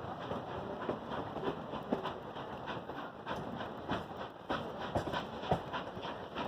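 Railroad car rolling along the track: a steady rumble with a run of irregularly spaced clacks and knocks, a few a second, from the wheels and couplings.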